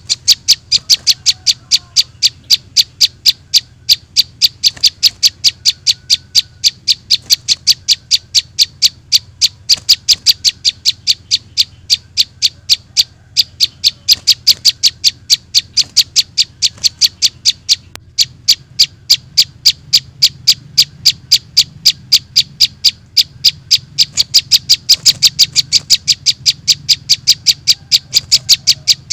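Looped lure recording of a juvenile prinia (prenjak) call played through a speaker: short, high chirps repeating evenly, about three to four a second, over a faint low hum.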